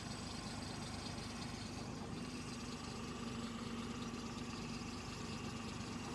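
Diesel tractor engine running steadily at low revs with an even hum.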